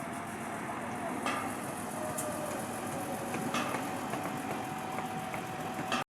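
An engine running steadily, with a few sharp knocks over it.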